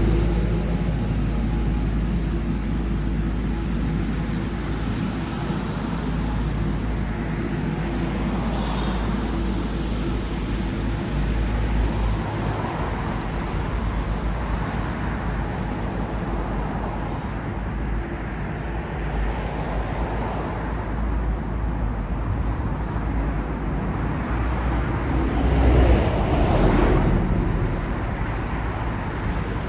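City street traffic: a steady rumble of cars and other road vehicles, with one vehicle passing close about 26 seconds in.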